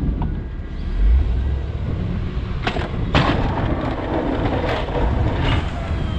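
Plow truck running with a steady low engine rumble, broken by a few sudden scraping knocks in the middle.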